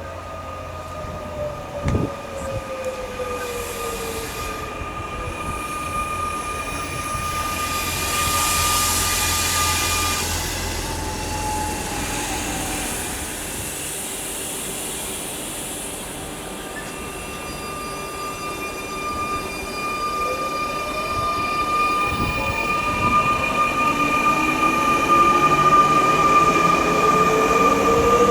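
Electric train at a station, its traction motors whining: a tone glides down in the first few seconds with a sharp click about two seconds in, then from about twenty seconds in several tones rise steadily and the sound grows louder, as when an electric train accelerates.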